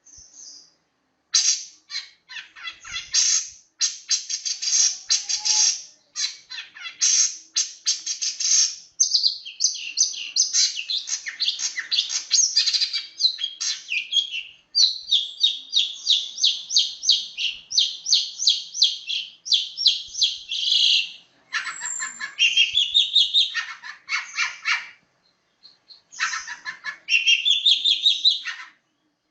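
Long-tailed shrike (cendet) singing a fast, tightly packed rolling song of rapid repeated high notes in long runs, broken by short pauses. Rising phrases come in twice near the end.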